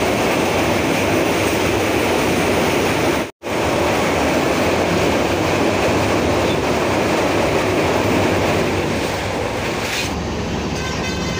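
Passenger train running, heard from inside a carriage through an open window: a steady loud rumble and rush of wheels on the track. It cuts out for an instant about three seconds in, and turns duller near the end.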